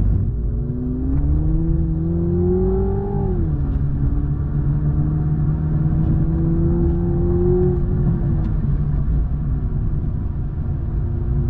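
Toyota Supra 2.0's turbocharged four-cylinder engine pulling under load. Its pitch climbs, drops sharply at an upshift about three seconds in, then climbs slowly again until it eases off around eight seconds, and builds once more near the end. A steady low rumble runs underneath.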